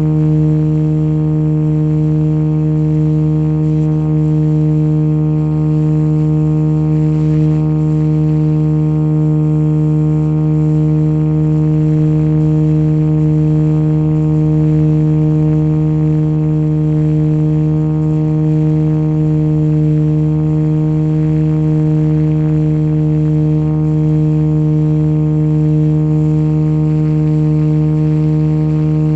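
RC model helicopter running at a constant speed: a steady, loud hum with one low pitch and many overtones that does not rise or fall.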